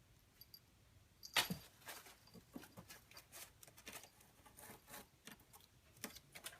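Plastic leaves of an artificial plant rustling and crackling as a kitten plays in it: a sharp rustle about a second and a half in, then short, irregular rustles and clicks.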